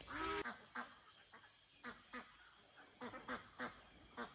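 Short animal calls: one longer call at the start, then about ten brief calls scattered through the rest.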